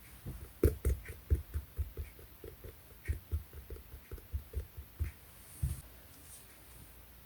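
Hands pressing and poking a clear slime mixed with clay slime, making a quick run of soft squishy pops and small clicks, about three or four a second, thinning out in the second half.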